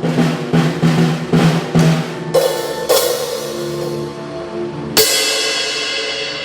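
Drum kit being played: a run of drum strokes at an even pace, then cymbal crashes, the last and loudest about five seconds in, left ringing.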